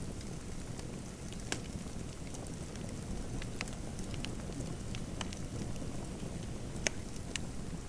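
Fireplace fire crackling: a steady low rumble of burning with scattered sharp pops, the loudest about seven seconds in.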